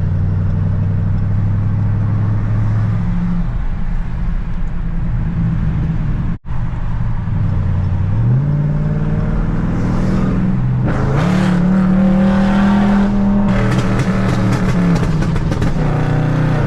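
Tuned Dodge Charger Scat Pack's 6.4-litre HEMI V8 cruising steadily, then accelerating: its note rises about eight seconds in and climbs again about eleven seconds in. A rapid crackling runs through the second half. The sound drops out briefly about six seconds in.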